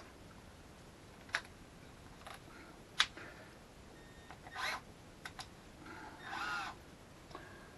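A few scattered sharp clicks and taps from hands working on the bench chain grinder, with a short wavering squeak about six seconds in; the grinder's motor is not running.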